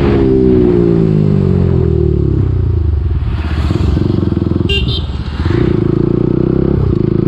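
KTM Duke 250's single-cylinder engine on the move, its revs falling over the first couple of seconds, then running at a steady pitch with a brief dip about five seconds in. A short high-pitched beep sounds just before the dip.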